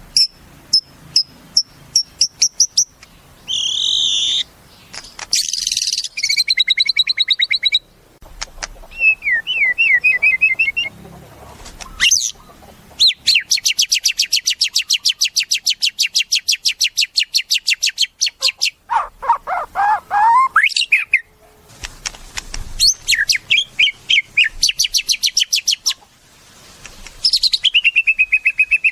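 White-rumped shama (murai batu) singing a varied song of clear whistles and fast chattering phrases, with a long rapid trill of repeated notes through the middle. Near the end a falling whistle runs into a steady string of quick notes.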